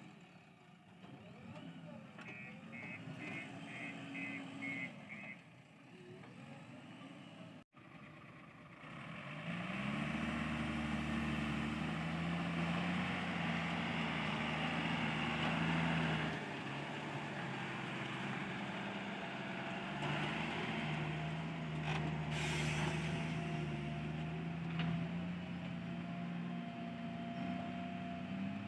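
About seven short high reversing-alarm beeps over a quieter diesel engine. After an abrupt cut, a JCB 3DX backhoe loader's diesel engine revs up and runs loud and steady under working load.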